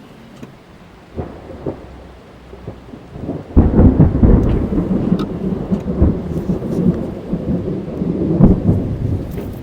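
Rain falling on a car, heard from inside the car, with small taps of drops; about three and a half seconds in a loud thunderclap breaks in and goes on rumbling.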